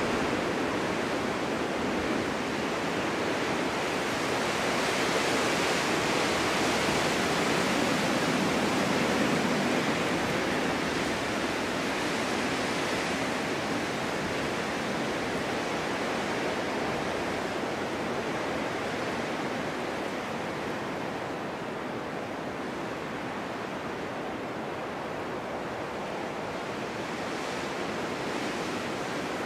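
Snowstorm wind blowing as a steady rushing noise, swelling somewhat in the first third and easing off later.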